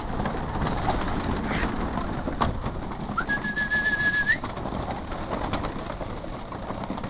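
Racing pigeons cooing and stirring in a loft. A single sharp click comes about two and a half seconds in. About three seconds in, a person gives one long, steady whistle that turns up at the end, calling the birds.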